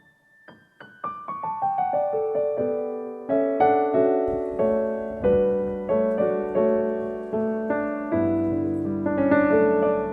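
Background piano music: a few soft notes, then a descending run of single notes, then ringing chords.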